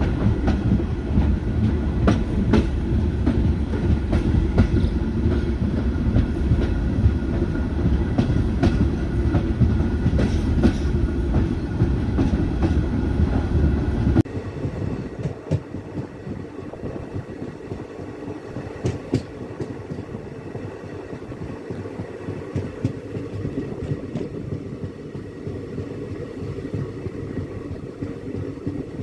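Passenger train running, heard from an open coach door while crossing a railway bridge: a loud, deep rumble with the clickety-clack of wheels over rail joints. About halfway through it drops suddenly to a quieter, thinner running sound.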